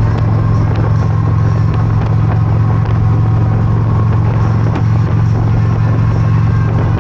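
Motorcycle under way at a steady speed: a loud, even low rumble of the engine with a hiss over it, holding steady throughout.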